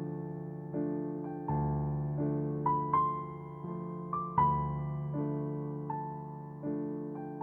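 Background music: slow, gentle piano or electric piano playing soft single notes and chords, each ringing out before the next.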